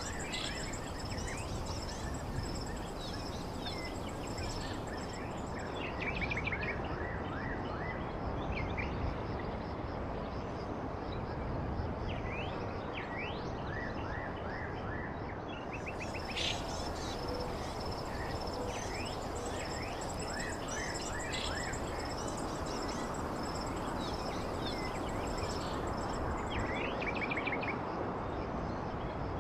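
Birds chirping, with many short sweeping calls and a few quick trills, over a steady rushing background noise and a faint, steady high-pitched whine.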